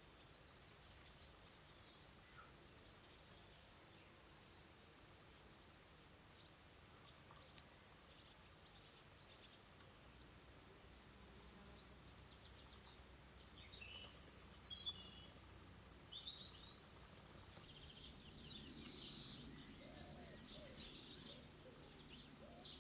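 Faint, scattered birdsong of high chirps and short calls, starting about halfway through after near silence, with a few sharper chirps near the end.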